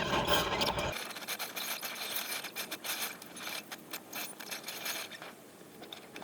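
Faint scraping and clicking of tools on metal. A fuller steady noise underneath cuts off suddenly about a second in.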